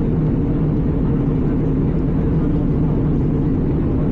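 Steady low drone of an Airbus A320 in flight, heard inside the passenger cabin: engine noise and airflow, unchanging throughout.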